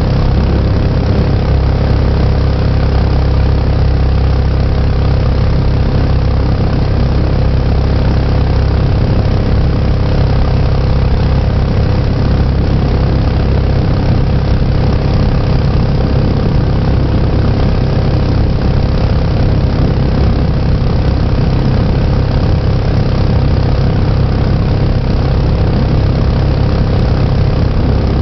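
Mokai jet boat's small engine running steadily.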